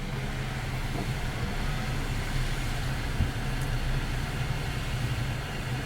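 Car engine idling, a steady low hum, with a steady hiss over it.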